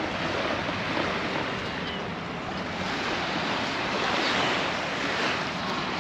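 Small waves washing onto the beach in a steady wash of surf that swells slightly about four seconds in, with wind on the microphone.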